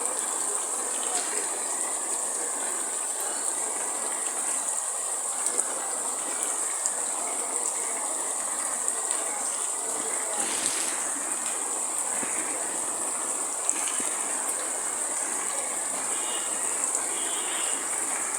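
Steady rain falling, an even hiss with scattered faint drop ticks and a brief swell about ten seconds in.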